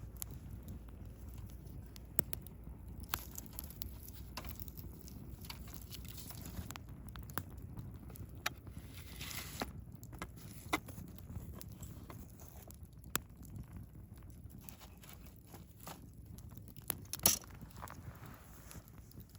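Wood fire burning in a Picogrill 398 stand, crackling with irregular sharp pops and snaps over a low rumble of flame, with brief hissing spells; the loudest pop comes near the end.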